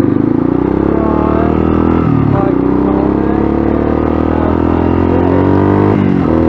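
Dirt bike engine pulling under load, its note climbing steadily, then dropping about two seconds in and again near the end as the bike shifts up a gear.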